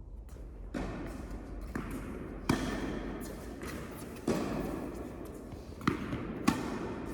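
Tennis rally: ball struck by rackets and bouncing on the court, about six sharp hits at uneven intervals, each followed by a ringing echo of an indoor hall.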